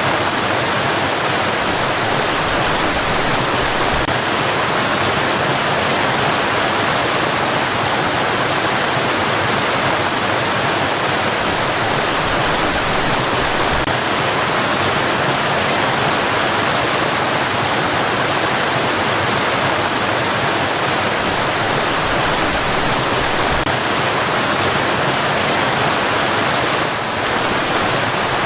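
Rushing water, a loud steady rush that does not change, dipping slightly for a moment near the end.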